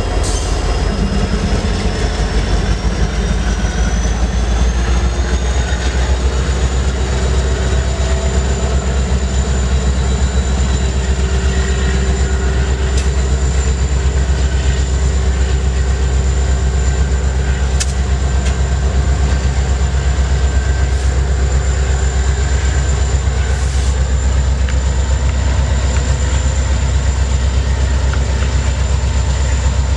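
Freight train rolling past close by: a loud, steady, heavy rumble of railcars, with a few sharp clicks of wheels over the rail. A thin high whine rises in pitch over the first several seconds, then holds steady.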